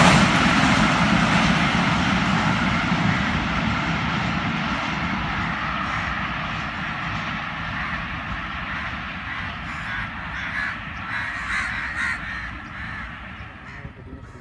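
Passenger train hauled by a ZCU20 diesel-electric locomotive receding after passing, its rolling noise on the rails fading steadily away over the whole stretch.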